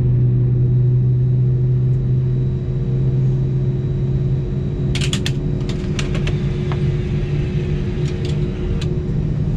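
Steady low hum inside an Airbus A319 cabin on the ground, its deepest note easing off about halfway through. Sharp clicks and creaks come in a cluster a little past the middle and again near the end.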